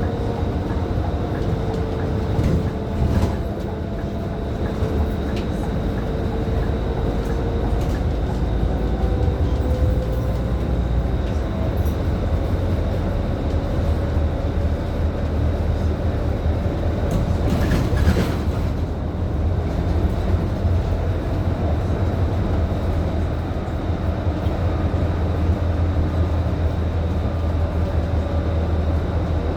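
Scania K310IB city bus's five-cylinder diesel engine running as the bus drives, heard from inside the cabin: a steady low rumble with a mechanical whine that slowly rises and falls in pitch. A short hiss of air about two-thirds of the way through.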